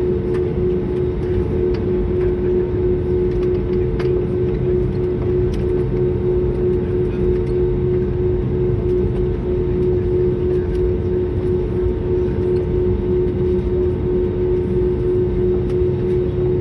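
Cabin noise inside an Airbus airliner in flight: a loud, steady rush of engines and airflow with a constant droning tone held through.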